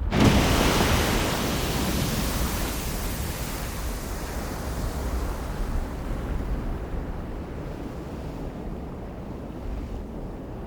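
Geyser erupting: a sudden rushing burst of water and steam that starts abruptly and fades over several seconds into a steady hiss, over a low rumble of wind on the microphone.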